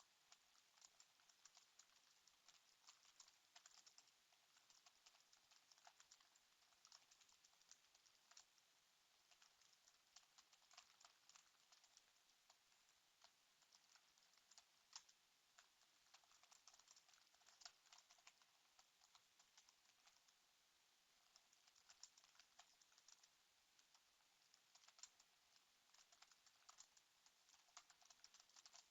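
Faint typing on a computer keyboard: a dense run of quick key clicks, with a couple of brief pauses.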